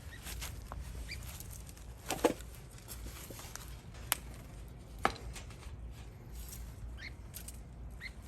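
A few faint, short chirps from small birds, with three sharp clicks or knocks, the first about two seconds in and the loudest, over a low steady hum.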